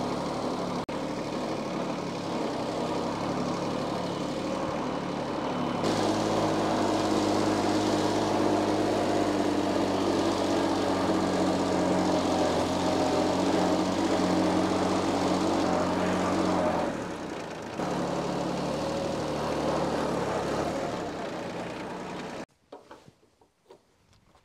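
Diesel engine running steadily. About six seconds in it gets louder as it is worked harder, and it drops back near seventeen seconds. It cuts off suddenly a couple of seconds before the end.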